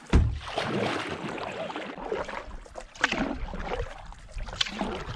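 Canoe paddle strokes through river water, a few swishing splashes about a second and a half apart, with a sharp thump just after the start.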